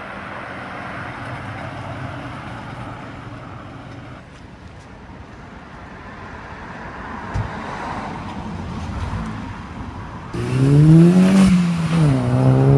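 Car engines running past at low speed, then about ten seconds in a Volkswagen Golf GTI accelerating hard: its engine note climbs, drops at an upshift, and climbs again.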